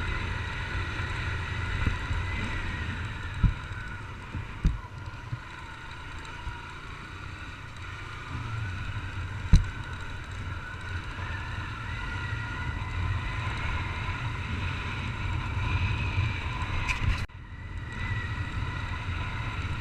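Honda CG Titan 150 single-cylinder motorcycle engine running on the road, heard from a helmet-mounted camera, its pitch rising and falling with the throttle under steady wind noise on the microphone. A few short thumps, the sharpest about ten seconds in.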